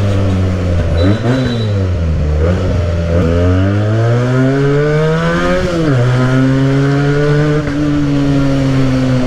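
Modified Benelli motorcycle with an aftermarket exhaust, riding: the revs dip about a second in, climb steadily from about three seconds in, drop sharply near six seconds as the rider shifts or backs off, then run steadily with slowly falling revs.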